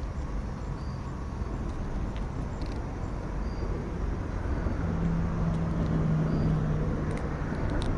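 Low steady rumble of a passing motor vehicle, its engine hum swelling about five seconds in, with a few faint clicks near the end.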